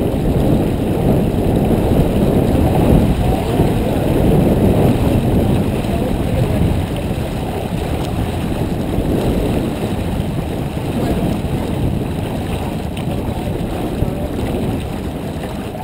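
Wind buffeting the microphone aboard a J24 sailboat under way: a loud, steady, low rumbling noise that swells and eases.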